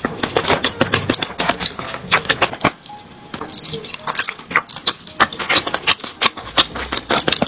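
Close-miked eating sounds from chocolate desserts: a dense run of sharp, crisp clicks and crackles, briefly easing off about three seconds in.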